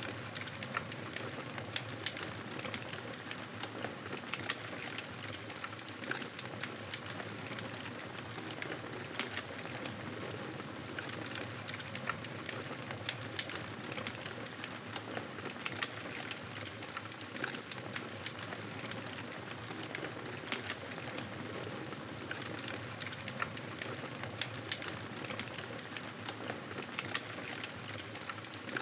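Campfire burning steadily, crackling and popping over a constant hiss of flame.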